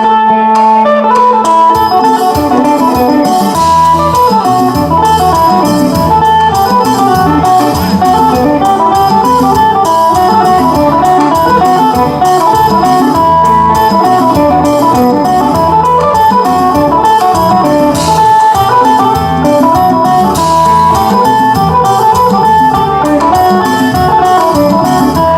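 Isan phin, the Thai plucked lute, playing a quick, busy melody over a steady beat and a bass line.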